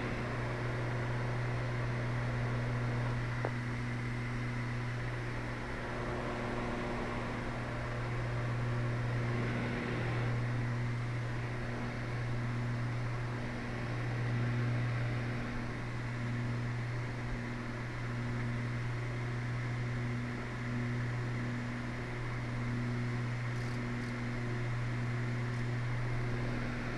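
The twin turbocharged six-cylinder Continental engines of a Cessna 320 drone steadily in the cabin in cruise. A slow, regular throb swells and fades about once a second. This comes with a vibration that the pilot finds sets in when he leans the fuel mixture back from full rich.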